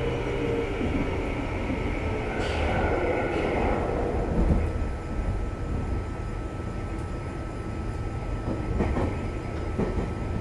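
Meitetsu 6500 series electric commuter train running, heard from inside the passenger car: a steady rumble of wheels on rail with a faint steady whine, swelling briefly near the middle, and a few sharp clacks near the end.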